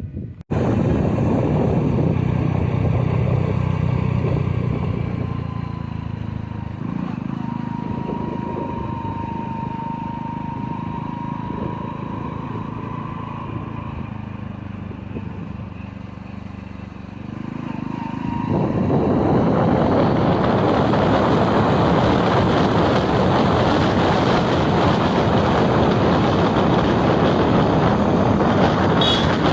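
A motor vehicle engine running steadily, with a thin steady whine through the middle. About two-thirds of the way in, a louder, even rushing noise takes over and stays to the end.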